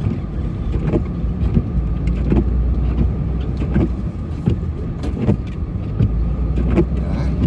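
Engine of a snowplow vehicle running steadily while pushing snow, heard from inside the cab, its low drone swelling twice. Frequent short knocks and thumps sound over it.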